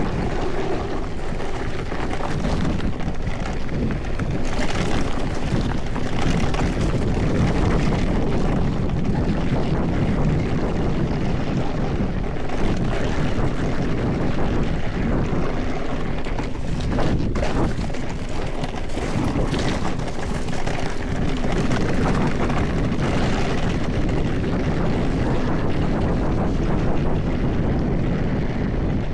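Mountain bike descending a dirt trail at speed: tyres rolling over rough, loose ground, with the bike rattling and knocking over the bumps.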